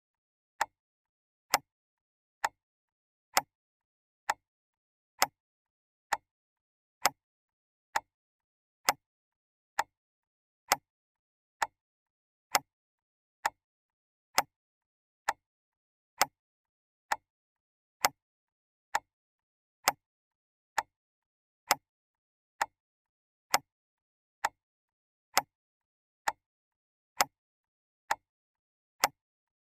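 Clock ticking steadily, one sharp tick a little under every second.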